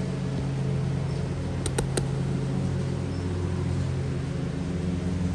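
Small single-cylinder lawnmower engine running steadily, a Briggs & Stratton flathead on a Toro Recycler, its pitch shifting slightly about three seconds in. A few sharp clicks come just under two seconds in.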